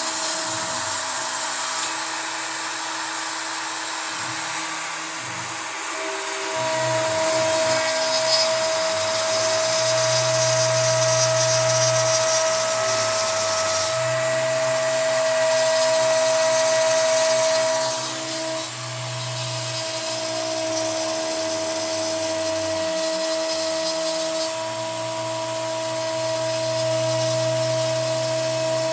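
CNC router at work: the Kress router spindle whines steadily while a 3 mm end mill cuts pine, with the low hum of the axis motors switching on and off as the gantry moves. The cutting is louder from about six seconds in until about eighteen seconds.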